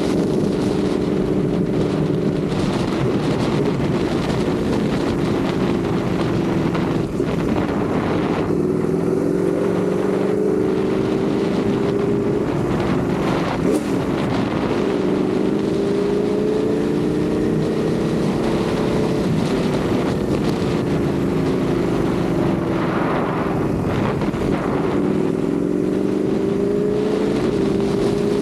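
Ducati Panigale V4 sportbike's V4 engine running under way, its pitch climbing slowly and dropping back several times as the rider rolls on and off the throttle. Wind rushes over the microphone throughout.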